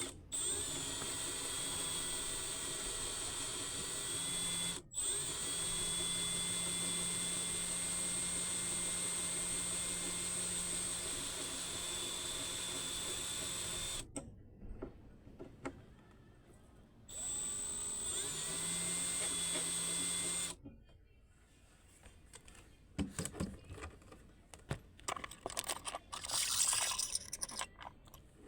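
Power drill running in two long steady whines, the first with a brief stop about five seconds in. After the second run it stops, followed by light irregular clinks and rattles of metal near the end.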